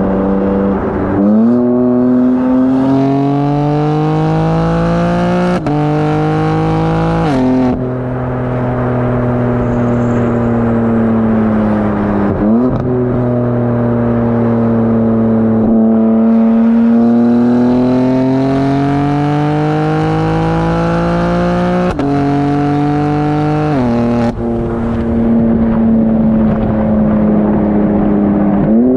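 BMW M4 Competition's twin-turbo straight-six, with high-flow cats and downpipes, accelerating through the gears. The engine pitch climbs steadily and drops sharply at upshifts about 6, 7 and 24 seconds in, with quick rising blips at downshifts about 1 and 12 seconds in. Between the shifts it holds a steadier drone.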